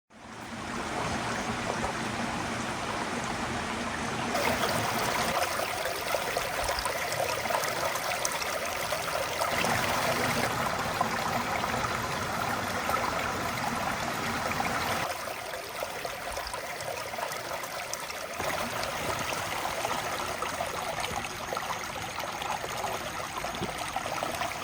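Creek water flowing: a steady rushing sound whose level and tone change abruptly several times.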